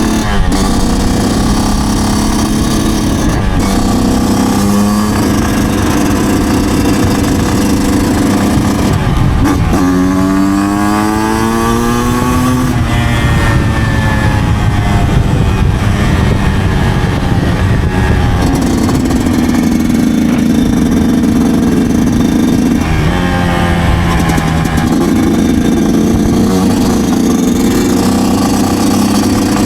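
2009 Yamaha YZ125's two-stroke single-cylinder engine running under way, heard from a helmet chin mount. About ten seconds in it revs up in a sharp climb of pitch, then falls back over several seconds, with another short rise a little after twenty seconds.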